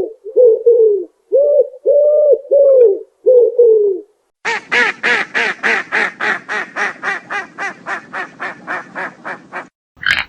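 Bird calls: a run of short, low, arching calls, then, after a brief gap, a rapid series of about twenty quacking calls, roughly four a second, that fade steadily and stop near the end.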